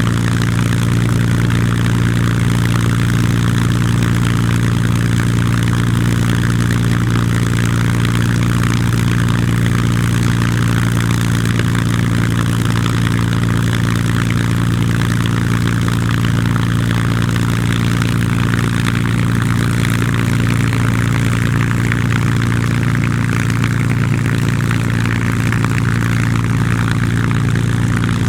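Merlin V12 piston aero engine running with a steady, even low drone that holds one pitch throughout.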